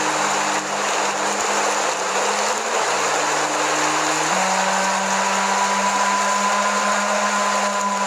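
Loud steady static hiss under a low droning synth-like tone that changes pitch twice, with fainter higher held tones joining about four seconds in.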